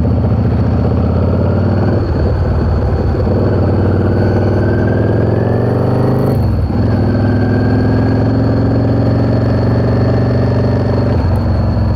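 Yamaha V-Star 650's V-twin engine running under way, its pitch climbing for a few seconds, dropping abruptly about six seconds in, then pulling steadily and slowly rising again.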